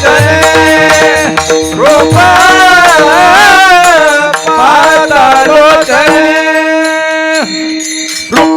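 A high male voice singing a wordless, ornamented devotional alap with long gliding held notes over a steady drone, with pakhawaj drum strokes near the start and the end.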